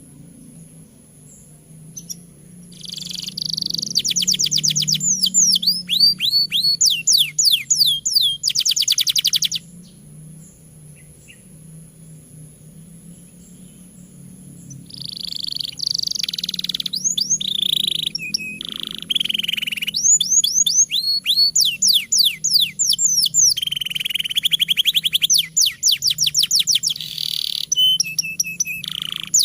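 Domestic canary in full song: fast trills of rapidly repeated high notes swooping up and down, changing from phrase to phrase. There is a long run of song, a pause of several seconds, then near-continuous song through the second half.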